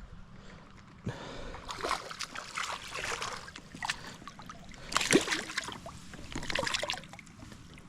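Water splashing and dribbling in irregular spurts, starting about a second in.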